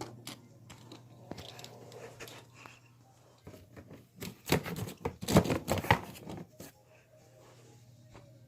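Light clicks and knocks of small hard objects being handled, scattered at first, then a quick run of louder knocks from about four to seven seconds in, over a faint steady hum.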